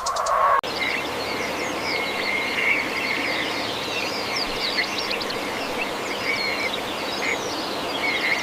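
Outdoor nature ambience of many birds chirping and trilling over a steady hiss, after a brief different sound that cuts off abruptly about half a second in.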